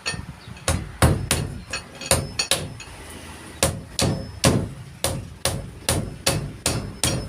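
A hammer driving nails into wood, struck repeatedly at about three blows a second, with a pause of about a second a third of the way through.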